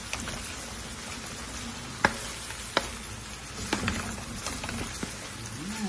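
Chorizo, garlic and tomato paste sizzling in oil in a pan as they are stirred, with several sharp clicks of the spatula knocking against the pan, the loudest about two seconds in.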